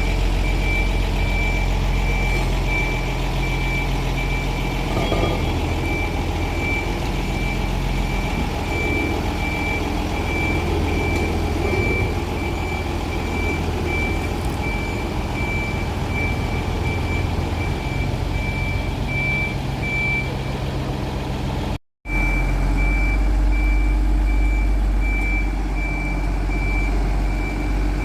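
A reversing warning beeper sounding in a steady run of short, even beeps at one pitch over the low, steady rumble of a vehicle running, as a vehicle is shunted. Everything cuts out for an instant about three-quarters of the way through.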